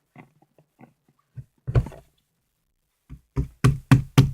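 Homemade wood-glue slime being mixed by hand, squelching: one loud squelch about halfway through, then a quick run of about six wet squelches near the end, roughly three a second.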